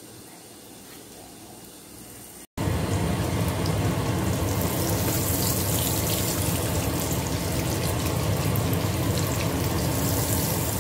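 Egg omelette with spring onion and dried radish frying in plenty of oil in a nonstick wok, sizzling. It is faint at first, then after a sudden break about two and a half seconds in it becomes a loud, steady crackling sizzle as the omelette is stirred with a wooden spatula.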